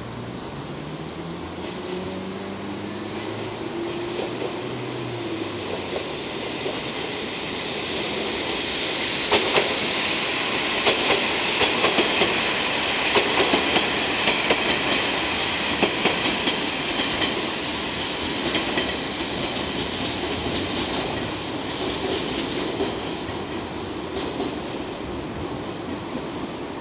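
Electric train running on the rails. A motor pitch rises at first, then comes a loud middle stretch of wheels clacking over rail joints with a high ringing screech from the wheels, easing off toward the end.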